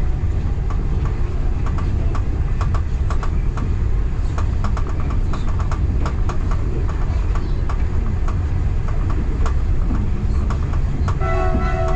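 Train running along the track: a steady low rumble with irregular clicking of the wheels over rail joints. About a second before the end a multi-tone train horn starts sounding.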